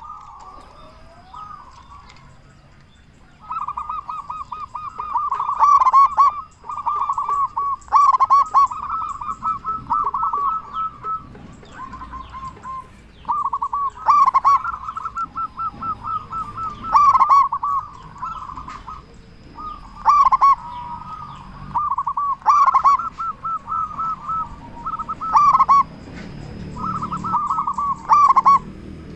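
Zebra doves (perkutut) cooing: phrases of rapid trilled coo notes repeated again and again, sometimes overlapping, starting in earnest about three seconds in after quieter calling.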